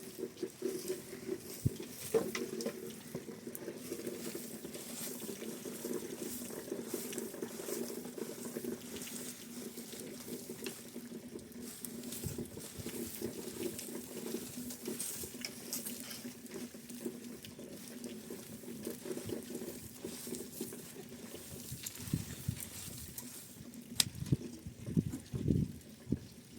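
Continuous water patter with many fine crackling clicks over a steady low hum, with a few louder knocks and thumps near the end.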